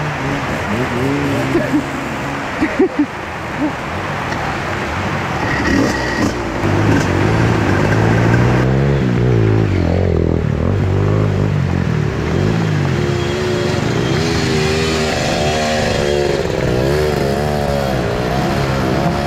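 Trail motorcycle engine running and revving, its pitch rising and falling as the throttle is worked, getting louder from about eight seconds in.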